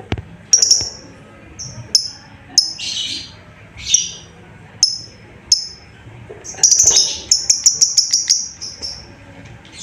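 Lovebird calling: short, sharp high-pitched chirps, two harsher rasping calls about three and four seconds in, then a fast run of chirps near the end.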